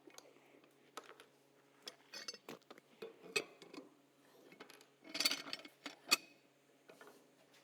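Tools and small metal parts being handled on a workbench: scattered light clicks and knocks, with a quick run of metallic clinks about five seconds in and a last sharp clink just after.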